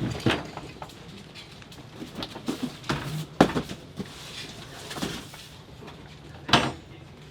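Boxes of spare car parts being handled and set down: scattered knocks, clunks and rustles, the loudest about three and a half and six and a half seconds in.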